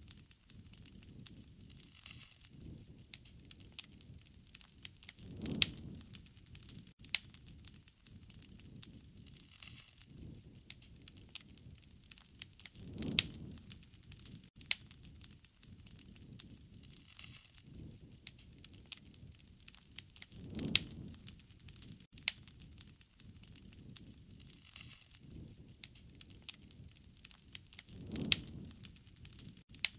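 Wood fire crackling: a steady run of sharp pops and snaps, with a low whoosh of flame swelling up about every seven or eight seconds.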